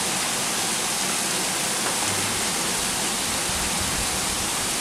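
Heavy rain pouring down onto tiled roofs, a dense, steady hiss.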